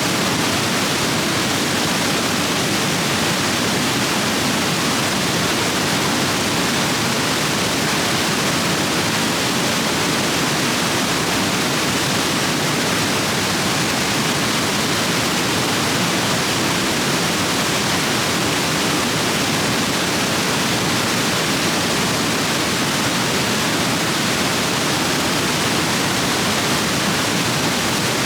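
Rapids on a rain-swollen stream rushing over rocks, a steady, loud roar of water.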